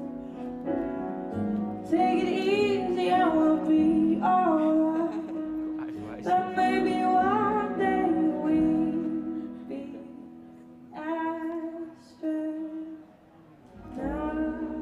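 A woman singing long, sliding melodic phrases without clear words over sustained instrumental chords. The music thins out and drops in level about twelve seconds in before a last vocal phrase.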